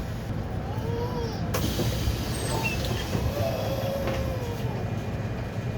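City bus heard from on board: the engine runs with a steady low hum, with faint squeaks and rattles from the body and a sharp click about a second and a half in.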